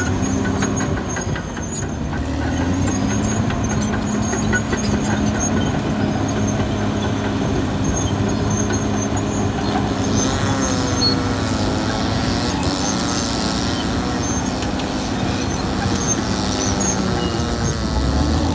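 Caterpillar D6R XL crawler bulldozer's diesel engine running steadily under work, with the clatter of its steel tracks. A wavering higher tone joins in about ten seconds in.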